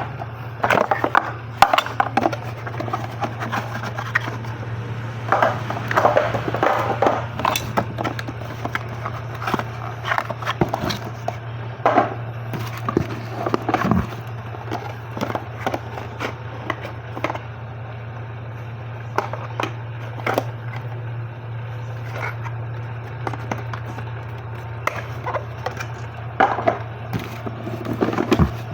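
Cosmetic racks and their packaging being handled: irregular rustling, scraping and knocks with sharp clicks, over a steady low hum.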